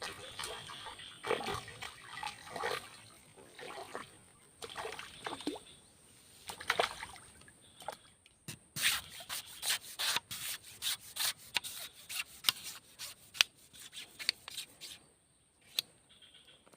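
Water splashing, then a dense run of irregular sharp slaps and taps through the middle, as a snakeskin gourami is hooked on a pole line and pulled out of still water. It goes nearly quiet near the end.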